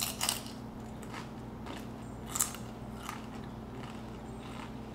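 Biting into and chewing a crunchy tortilla chip dipped in salsa: a handful of short sharp crunches about a second apart, the loudest a little past two seconds in.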